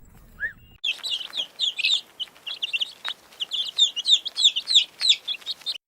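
Many birds chirping and peeping rapidly, their high, quick, overlapping calls starting abruptly about a second in after a few isolated chirps.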